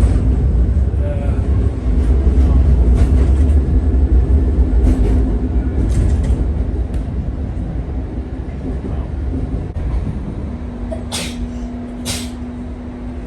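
Tvärbanan light-rail tram running on its rails with a low rumble that slowly dies away as it slows. About ten seconds in a steady hum takes over, and near the end there are two short hisses a second apart.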